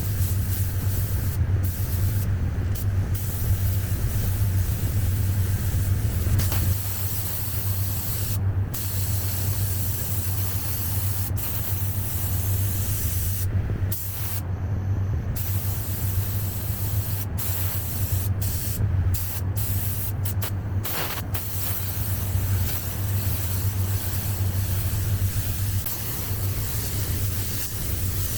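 Compressed-air spray gun hissing as paint is sprayed. The trigger is let off for short moments many times, while a steady low hum runs underneath.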